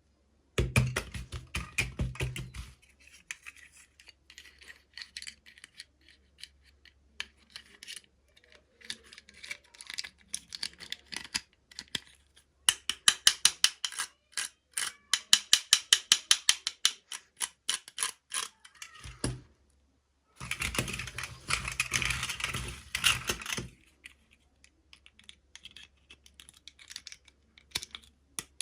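Toy packaging being handled and opened: scattered clicks and rustling, with a long run of fast, even clicks in the middle, about five a second.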